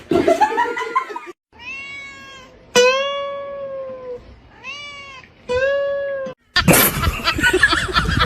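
A cat meowing: five long, drawn-out meows, each swooping up at the start and then holding its pitch. About six and a half seconds in, a loud, rough, noisy sound cuts in.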